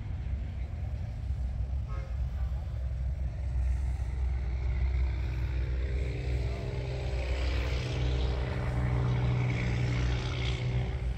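A car's engine running, growing louder from about five seconds in.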